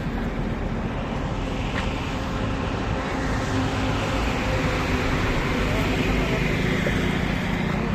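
Steady vehicle engine and road noise running without a break.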